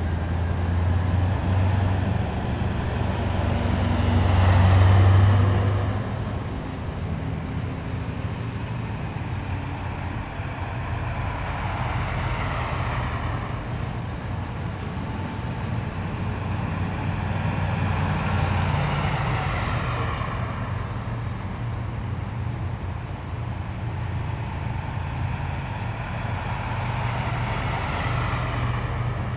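Heavy military vehicles driving past one after another, their engines running with a steady low drone. The sound swells and fades as each passes. The loudest pass comes about five seconds in, and further passes follow near twelve and nineteen seconds.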